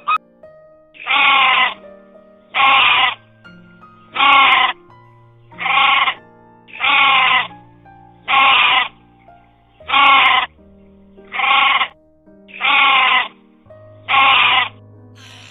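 A goat bleating ten times in a regular series, one call about every second and a half, over background music with steady held notes.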